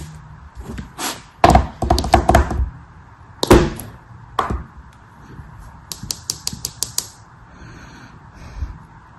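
Crisp cracking and crunching as a brittle material is crushed or cut by hand: a cluster of crackles, a loud crunch, and then a quick run of about eight sharp clicks near the end.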